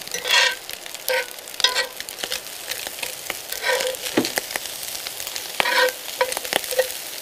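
Red beans and rice with sliced sausage sizzling in a cast-iron skillet on a portable stove while being stirred, a utensil scraping and knocking against the pan in irregular strokes. Small pops come through the sizzle as the beans start to pop.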